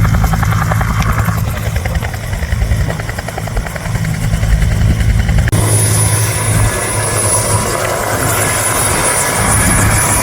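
Bell AH-1F Cobra attack helicopter running, with the steady beat of the main rotor over engine noise. About halfway through, the sound changes abruptly and a high, steady whine comes in.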